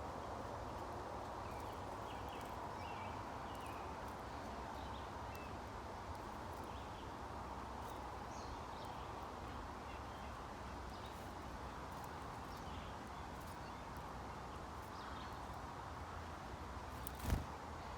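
Small birds give scattered faint, short chirps over a steady outdoor background hiss. A single sharp thump stands out near the end.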